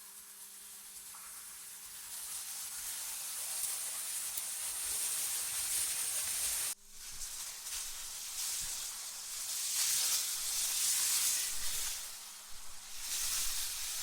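AI-generated wind sound: a high-pitched hiss that swells and fades in gusts, cutting out abruptly for a moment about seven seconds in.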